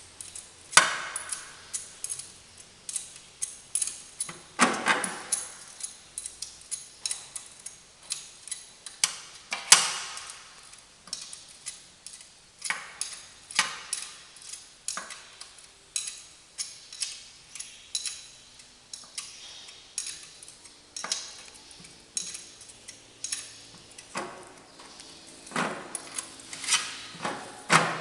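Metal hand tools and engine parts clinking and knocking, with irregular sharp clicks about one or two a second, some ringing briefly, during engine disassembly and reassembly work.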